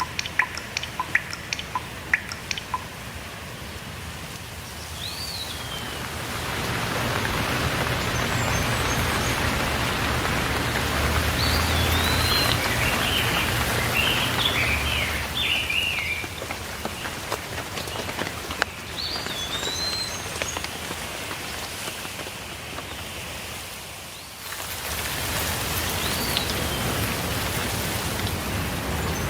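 Steady rainfall with birds chirping now and then, including a quick flurry of chirps midway. A few distinct drops tap in the first couple of seconds; the rain grows louder about six seconds in and briefly fades near the end before returning.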